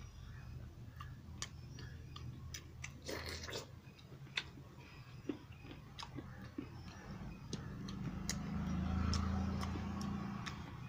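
Close-up eating sounds: chewing with wet mouth and lip smacks and scattered sharp clicks as rice and chicken curry are eaten by hand. A low hum swells up and fades away near the end.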